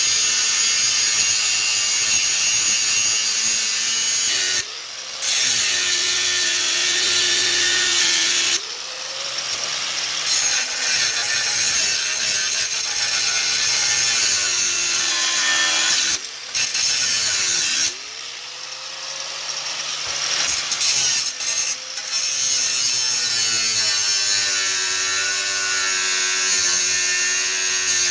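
Handheld electric power tool running in several long bursts with brief stops. Its motor pitch sags under load and climbs back as it spins up again.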